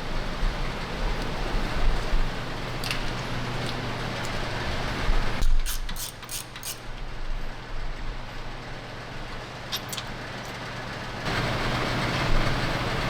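Steady shop background noise with sharp metallic clicks and clinks from work on the car: a quick run of them about six seconds in and a few more near ten seconds. The background changes abruptly twice, about halfway through and again near the end.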